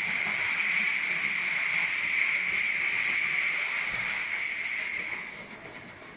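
High-pressure water jets of a single-arm touchless car wash machine spraying with a steady hiss, which stops about five seconds in.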